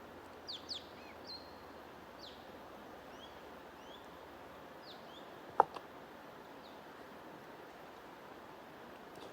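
Wild birds chirping in short, quick downward-sweeping notes, several together near the start and scattered after, over a steady rushing white-noise or flowing-water bed. A single sharp click about five and a half seconds in, with a softer one just after, is the loudest sound.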